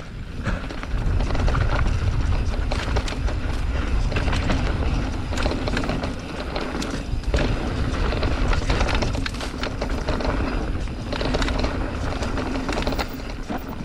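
Mountain bike riding fast down a rough dirt trail: tyres rolling over rock and roots, with irregular clatter and knocks from the bike's chain and frame, over a low wind rumble on the microphone.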